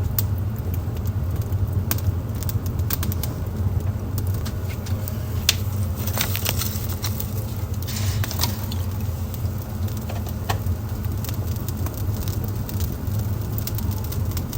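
Wood fire burning in a fireplace, crackling and popping at irregular moments over a steady low rumble, with a short run of crackles about halfway through.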